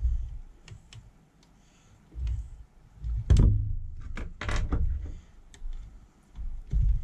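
Scattered clicks and knocks of small metal parts being handled as blades are fitted to a cordless planer's cutter drum, with low bumps of handling. The loudest knocks come between about three and five seconds in.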